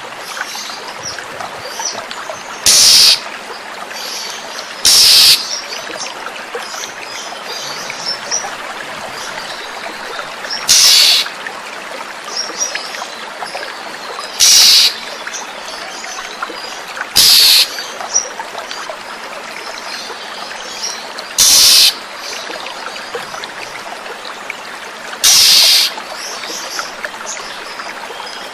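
Oriental magpie-robin (kacer) giving short, harsh calls seven times at uneven intervals, with faint chirps between them, over steadily trickling running water.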